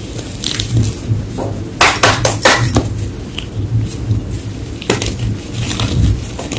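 White gym chalk being crushed, crunching and cracking: a quick cluster of snaps about two seconds in and another crack about five seconds in.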